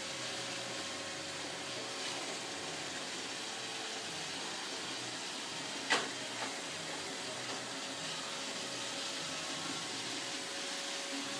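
Roomba robotic vacuum cleaner running steadily, a constant hiss with a faint hum. About halfway through there is one sharp knock, then a lighter one just after.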